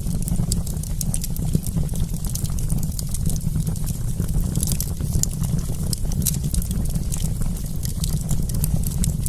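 Wood campfire crackling: a constant run of small, sharp pops and snaps over a steady low rumble.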